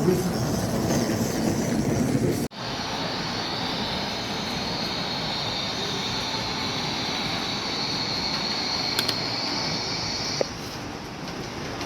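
Model railway locomotive running on an exhibition layout: a steady whirring hiss with a bright high edge, which drops away suddenly near the end. It is preceded by about two and a half seconds of hall noise that cuts off abruptly.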